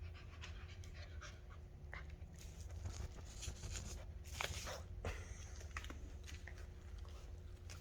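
Rottweiler puppies moving about and panting softly, with small scattered clicks and scratches, over a steady low hum.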